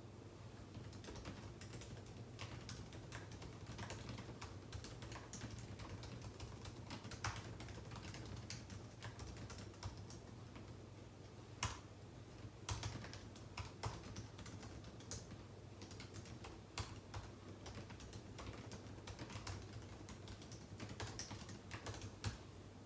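Typing on a computer keyboard: irregular runs of key clicks with a few louder key strikes, likely the space bar or enter key. A faint steady low hum sits underneath.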